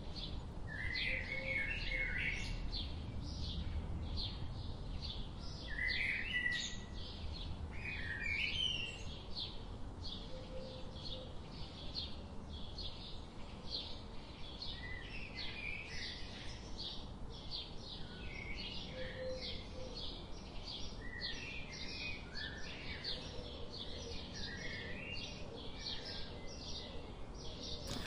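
Wild birds chirping: a steady run of short high chirps, about two or three a second, with bursts of lower, twittering calls every few seconds.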